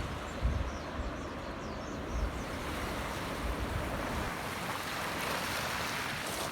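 Sea waves washing on the shore, the wash swelling louder about five seconds in, with wind buffeting the microphone in low thumps during the first couple of seconds.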